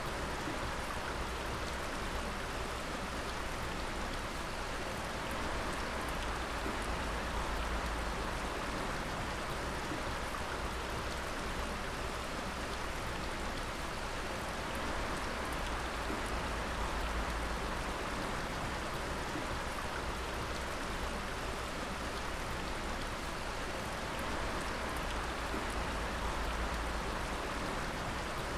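Water dripping densely and steadily, many drops falling at once to make an even rush with faint single ticks through it.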